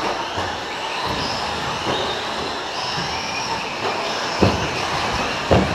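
Several electric 4WD short-course RC trucks racing: high-pitched brushless motor whines come and go over steady tyre and track noise. Two sharp thumps sound near the end.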